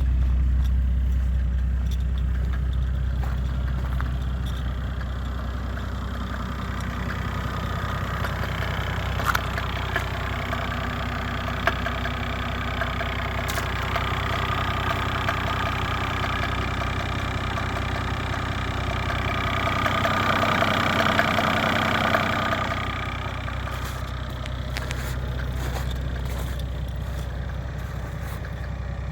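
Mercedes OM606 3.0-litre inline-six turbo diesel idling steadily just after a cold start at about −8 °C, running smoothly. Its sound grows a little louder and brighter about twenty seconds in, then settles again.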